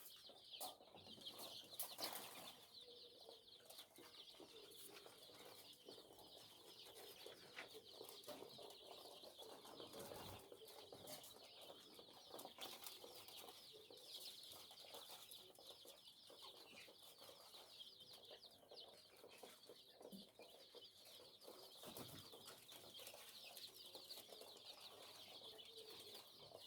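A crowd of poultry chicks peeping all at once: a faint, steady, dense chorus of high cheeps with no pause, and a few sharp knocks in the first two seconds.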